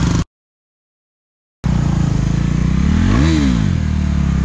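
KTM 390 Duke's single-cylinder engine idling, with one quick blip of the throttle about three seconds in that rises and falls in pitch. The sound drops out completely for about a second and a half near the start.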